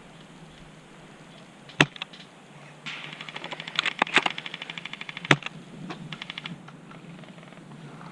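Airsoft guns firing: single sharp shots about two seconds in and again past five seconds, and a fast rattling burst of rapid fire from about three to four and a half seconds in.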